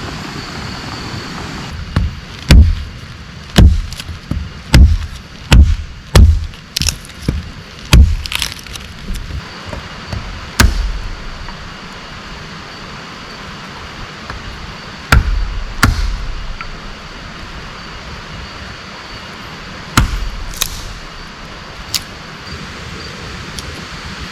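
Steady rain hiss with a run of hard knocks, about one a second for several seconds, then a few more spaced out further apart, like something being struck repeatedly with a tool.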